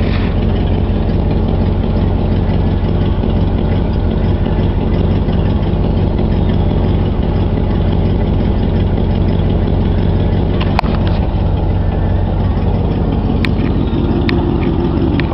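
Cadillac 429 V8 idling steadily through glass-pack mufflers, a low even rumble. A few sharp clicks come in the last few seconds.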